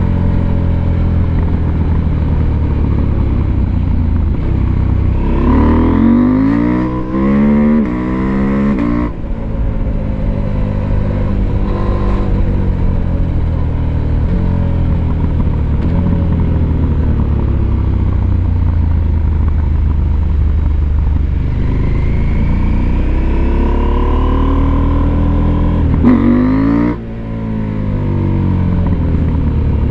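Husqvarna Norden 901's parallel-twin engine under way, running steadily, then revving up hard twice. The first climb starts about five seconds in and the second about twenty-two seconds in, and each ends with a sudden drop in level.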